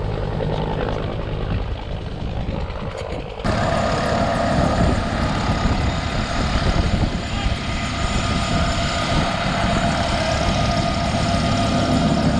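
Bell UH-1 Huey helicopter running: turboshaft engine and rotor noise with a steady whine. It jumps abruptly louder and brighter about three and a half seconds in.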